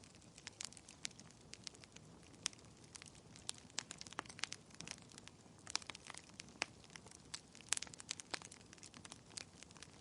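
Wood fire in a fireplace crackling: irregular sharp snaps and pops, several a second and some louder than others, over a soft steady hiss.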